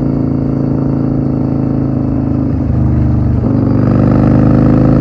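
Yamaha Road Star Warrior 1700 V-twin running through a Cobra swept exhaust while the bike is ridden. The engine note dips twice, about two and a half and three and a half seconds in, then climbs steadily as it accelerates.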